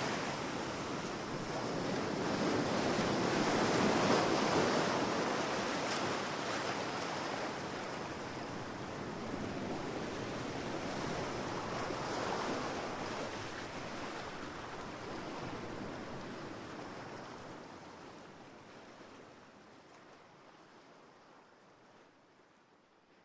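Ocean surf washing onto a beach, swelling and easing in slow surges, then fading out gradually over the last several seconds.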